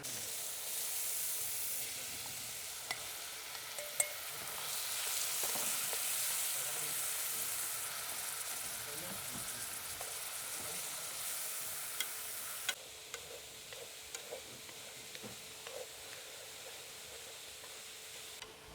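Food sizzling as it fries in a pan, with a few sharp clicks. The sizzle drops off suddenly about thirteen seconds in, leaving a quieter crackle and scattered small ticks.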